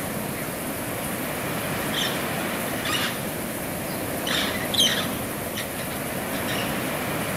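A few short bird chirps, the loudest near the middle, over a steady rushing noise.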